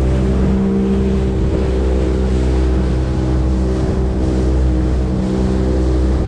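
Motorboat engine running steadily at speed while under way, a constant drone with a hiss of wind and water over it.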